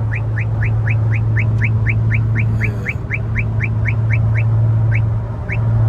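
Radar detector alerting inside a car cabin: rapid short rising chirps about four a second, thinning to single chirps after about three seconds as the detected radar signal fades. Underneath, the steady drone of the Infiniti Q50's twin-turbo V6 and road noise at highway speed.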